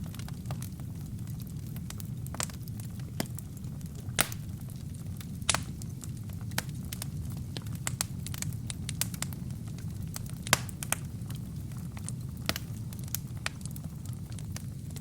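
Wood fire burning in a fireplace: a steady low rumble of flames under irregular sharp crackles and pops, the loudest pops about four, five and a half and ten and a half seconds in.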